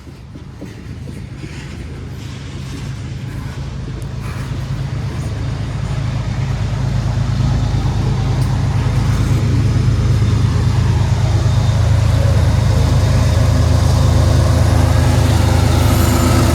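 Mid-train distributed power unit, a diesel-electric freight locomotive, approaching with its deep engine hum growing louder over the first eight seconds or so, then running steadily close by.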